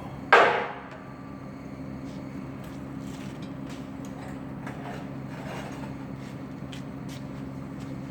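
A single sharp knock, the loudest thing here, about a third of a second in, ringing briefly as it dies away, over a steady low machine hum, with a few faint ticks later on.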